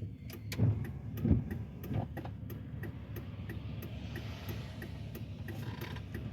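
A vehicle's turn signal ticking evenly, about two to three clicks a second, over the low rumble of the truck's engine heard from inside the cab.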